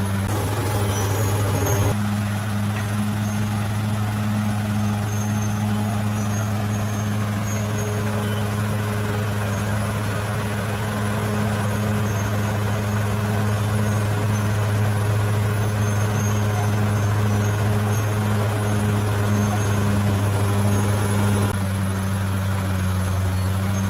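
Bulldozer's diesel engine running steadily, with slight shifts in its note about two seconds in and again near the end.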